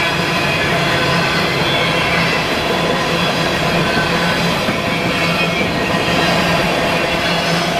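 Freight train rolling past: a steady, loud rumble of railcars on the track, with faint high wheel squeal over it.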